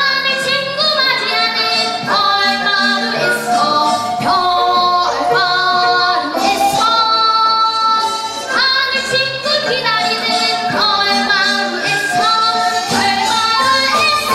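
Children's vocal ensemble singing a newly composed gugak-style Korean children's song, the voices holding long notes with a wavering pitch.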